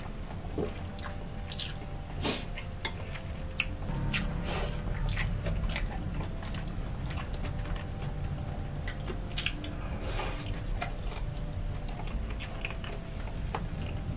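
Close-miked chewing of a mouthful of spicy boneless chicken feet and rice ball, with irregular short wet smacks and clicks from the mouth.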